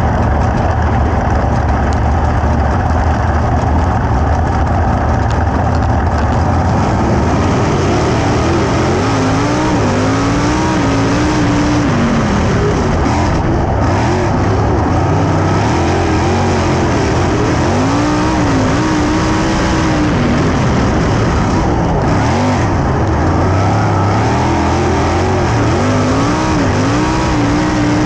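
Sprint car engines running hard in a heat race on a dirt oval, the engine pitch rising and falling again and again.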